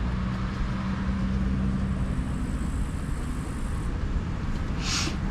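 Steady low rumble with a hiss over it, and a faint hum in the first couple of seconds. A short brushing or rustling hiss comes about five seconds in.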